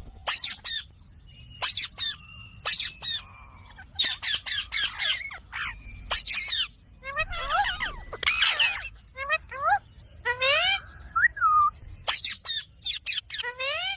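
Green parrot squawking in bursts of short, harsh calls, with a few longer calls that waver up and down in pitch.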